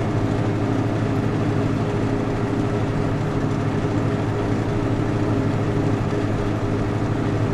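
Vehicle engine running steadily at an even pitch, over a constant background hum that does not change through the stretch.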